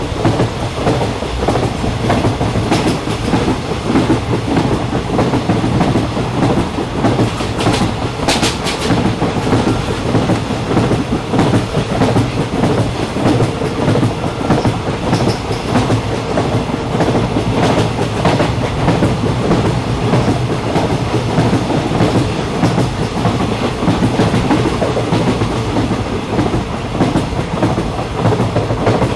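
Train running steadily along the track, heard from aboard: a continuous rumble with the clickety-clack of wheels over rail joints and a brief cluster of sharper clatters about eight seconds in.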